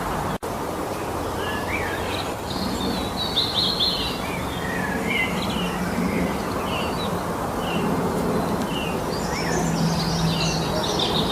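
Several songbirds singing in spring mountain forest, with many short chirps and trills overlapping over a steady noisy background. The sound cuts out for an instant shortly after the start.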